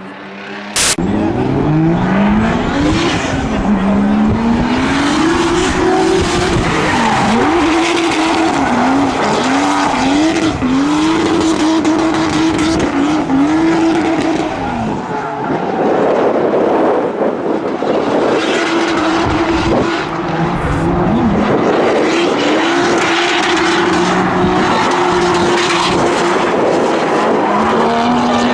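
Drift car engine revving hard, its pitch swinging up and down repeatedly as the throttle is worked, over loud tire squeal and screech. The sound starts suddenly about a second in and dips briefly around halfway before climbing and holding high again.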